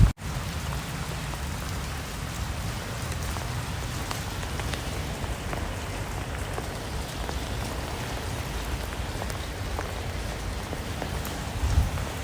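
Steady rain falling, an even hiss with scattered individual drops ticking through it. It comes in after a momentary dropout right at the start.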